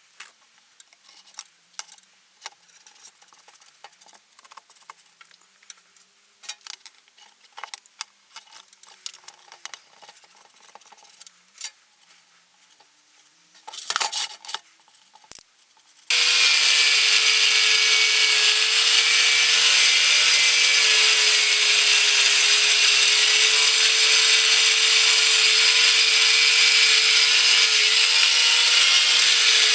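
Faint scattered clicks and taps, then, a little past halfway, the Ural-2 chainsaw's two-stroke engine cuts in abruptly, running loud and steady at high speed as the boat's outboard.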